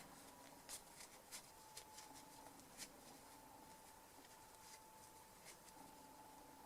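Near silence: room tone with a faint steady hum and a few faint, short clicks of small parts being handled.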